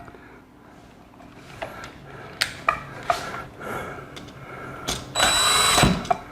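A few sharp clicks of tools and outlet parts being handled, then a cordless drill/driver runs for about a second near the end.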